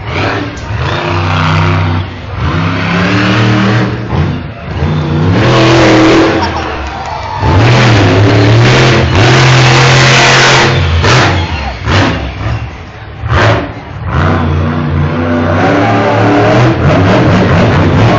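Monster truck engine revving hard again and again, its pitch climbing and falling, loudest about 6 seconds in and from about 8 to 11 seconds in.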